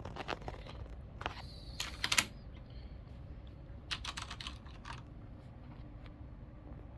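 Keys of a Logitech G710+ mechanical keyboard (Cherry MX Brown switches) being pressed in short, irregular runs of clicks. The loudest run comes about two seconds in, and another follows near the middle.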